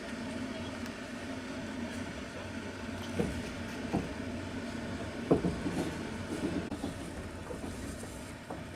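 Passenger train carriage running along the rails, heard from inside the car: a steady rumble with several sharp wheel knocks and clacks in the middle.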